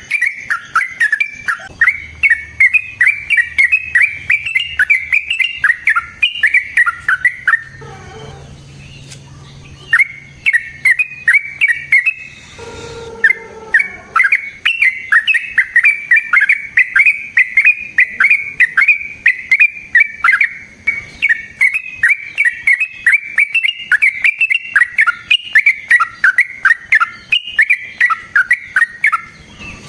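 Yellow-vented bulbul (trucukan) singing a long, rapid chattering song of quickly repeated notes. The song breaks off for about two seconds about a quarter of the way in, then runs on.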